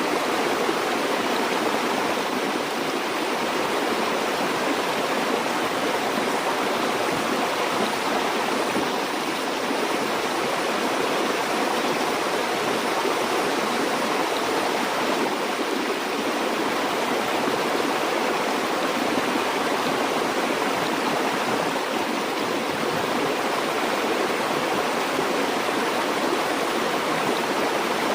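Flowing water of a stream or river running over rocks, a steady rushing and babbling with no change in level.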